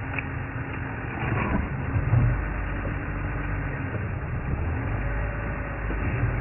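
Safari vehicle's engine running as it drives slowly over rough ground, a steady low rumble with occasional bumps.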